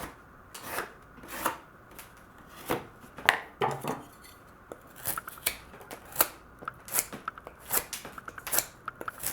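Freshly sharpened Spyderco Stretch folding knife with a ZDP-189 steel blade slicing through cardboard, a dozen or so crisp cuts at an uneven pace. The cuts test the edge after sharpening on ceramic stones.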